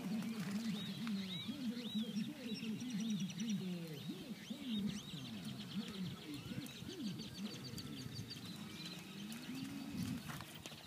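Many birds calling at once: a dense run of low, bending calls with higher chirps over them.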